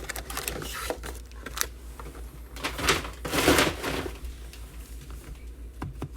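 Trading-card pack wrappers crinkling and cards being handled, with small clicks and a louder rustling burst about three seconds in. A low steady hum sits underneath.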